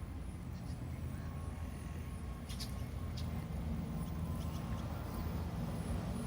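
Wind buffeting the microphone as a steady, unsettled low rumble, with a couple of faint short clicks about two and a half and three seconds in.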